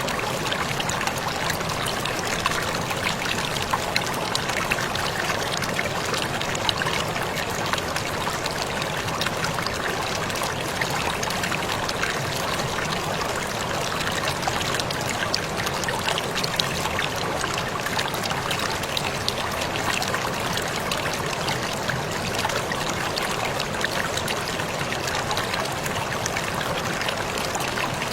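Small waterfall pouring and splashing steadily, a continuous rush of water dotted with many fine droplet splashes.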